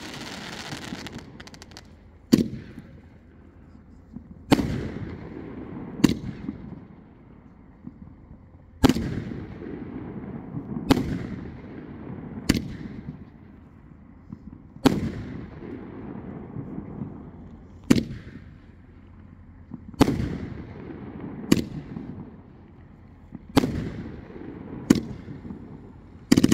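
Svea Fireworks 'Bomb Festival' fireworks cake firing shot after shot: about a dozen sharp bangs, one every two seconds or so, each trailing off in a fading rush.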